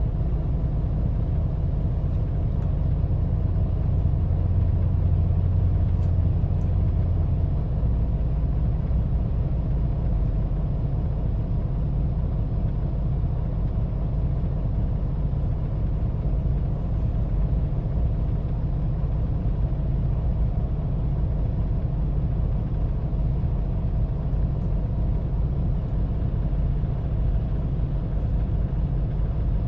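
Heavy diesel engines of a loader and a semi truck running steadily while sand is loaded into the truck's bottom-dump trailer. A stronger, deeper engine tone comes in from about four to seven seconds in.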